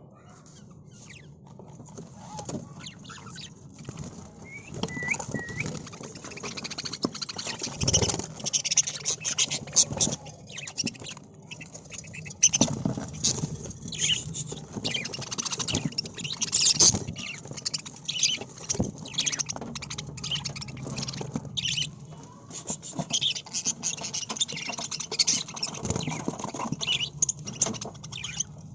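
Caged budgerigars chattering, with a steady stream of rapid, overlapping high chirps and squeaks that builds up over the first few seconds.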